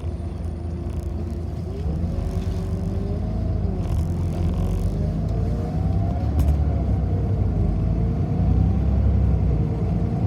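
City bus under way, heard from inside: a steady low rumble of drivetrain and road, with a tone from the drive that climbs in pitch as the bus gathers speed and then eases off, and a couple of faint clicks.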